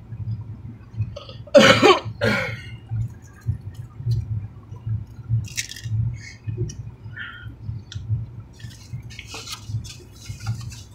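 Close-up chewing and eating, with small wet mouth clicks and smacks from people biting into sandwiches. About two seconds in comes a short, loud, cough-like vocal sound in two parts.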